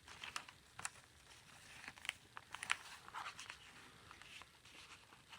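Faint rustling and scattered light clicks and taps of a handmade junk journal's paper pages and tags being handled and turned.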